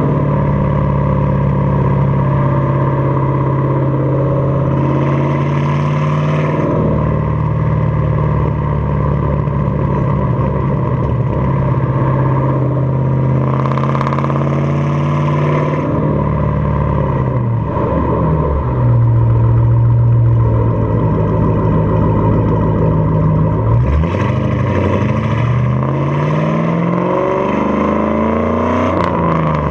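2006 Ford Mustang GT's 4.6-litre three-valve V8 exhausting through an off-road X-pipe and Pypes Pype-Bomb axle-back mufflers while driving in low gears. The engine holds a steady note for the first few seconds, then rises and falls in pitch several times as it accelerates, with a clear climb near the end.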